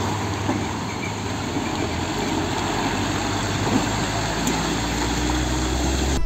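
Diesel engine of a concrete mixer truck running steadily at low revs with a continuous low hum.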